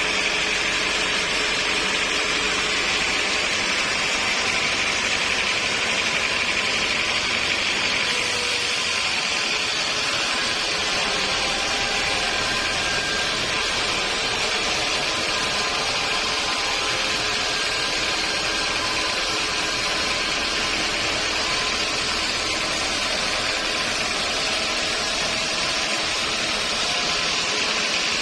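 Sawmill machinery running steadily: a constant mechanical noise with a high, even whine over it.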